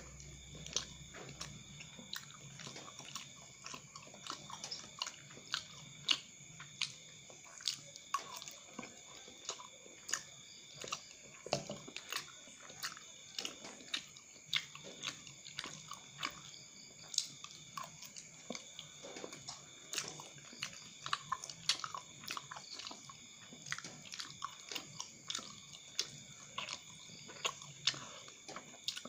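Close-up chewing and biting of chewy cilok (tapioca dumplings) in sambal: wet mouth clicks and smacks, about two or three a second, over a faint steady high whine.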